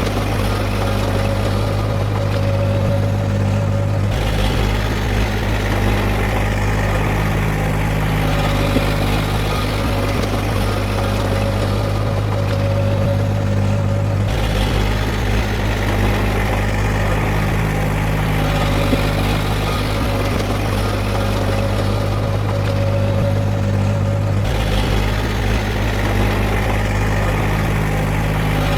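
Heavy diesel engine of earthmoving machinery running steadily. Its tone shifts abruptly about every ten seconds.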